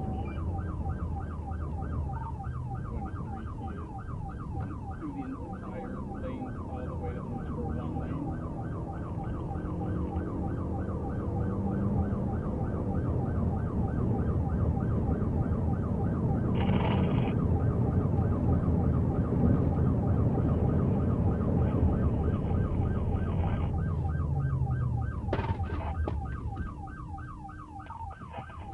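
Police siren yelping, a fast rising-and-falling wail about three to four times a second, over heavy engine and road noise that grows louder in the middle. A sharp click comes about 25 seconds in, and the siren and rumble fade near the end.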